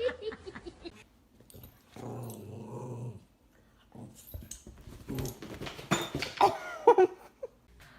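A dog growling for about a second, starting about two seconds in, among scattered knocks, with short high cries near the end.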